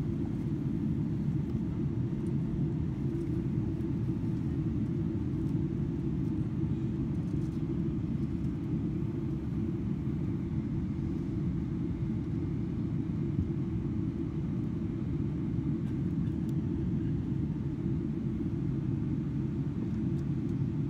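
Steady low rumble inside the cabin of a Boeing 777-300ER in flight on approach: engine and airflow noise heard from a window seat, even throughout with no changes in power.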